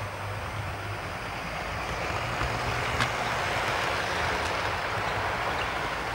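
Model train running on the layout's track: a steady whirring motor and wheel noise that grows louder in the middle as it comes close, with one sharp click about three seconds in.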